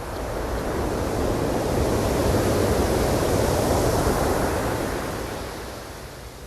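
Ocean wave breaking and washing ashore: a rush of surf that swells to a peak about two seconds in, holds, then fades away near the end.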